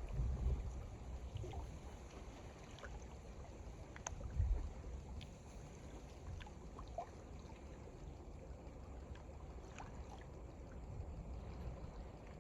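Small waves lapping and splashing at the lakeshore, with strong wind gusting against the microphone, the heaviest gusts at the very start and about four and a half seconds in.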